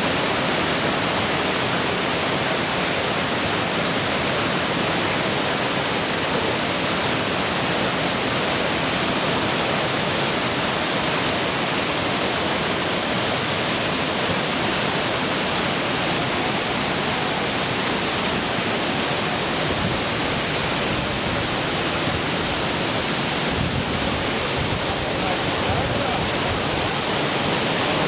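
Wide curtain waterfall: a steady, unbroken rush of falling water.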